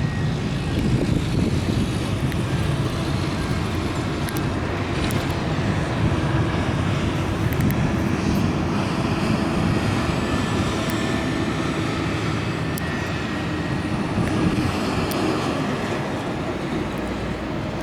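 A private airplane's engines running through its takeoff: a steady rumble with a faint whine over it, easing slightly near the end.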